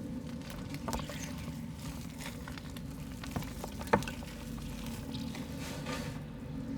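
Soft mud crumbled by hand into water: irregular crackles, crumbles and small wet splashes, with one sharper snap about four seconds in.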